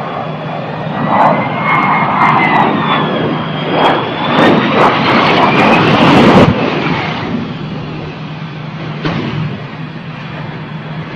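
Loud aircraft engine noise with a high whine that slides up and down in pitch. It cuts off abruptly about six seconds in, leaving a quieter steady rush with a low hum.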